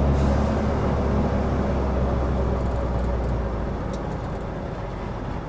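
Heavy truck's diesel engine heard from the cab as a steady low drone, easing off and growing quieter in the second half.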